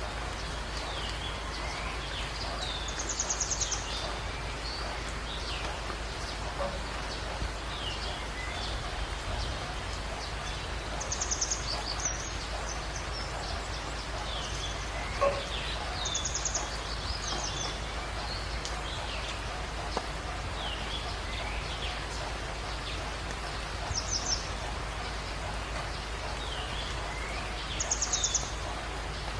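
Birds calling over a steady hiss of rain: a short, high, rapid trill comes five times, with scattered brief chirps between.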